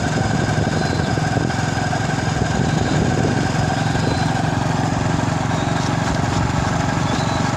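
Vehicle engine running steadily with an even drone while under way.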